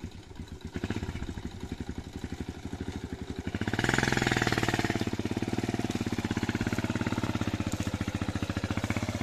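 A heavy diesel engine running with a rapid, even chugging pulse. It gets louder about four seconds in, as if revved or under load.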